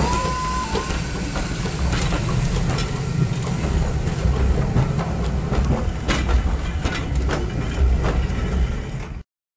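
Railway passenger coaches rolling past close by over a level crossing: a low rumble with sharp wheel clicks and clacks over the rail joints, until the sound cuts off suddenly near the end. A steady tone that shifts between two pitches stops about a second in.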